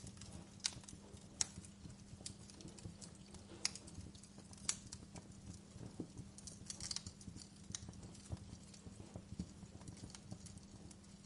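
Wood fire in a fireplace crackling: irregular sharp pops and snaps, a few of them louder, over a low steady burning hum.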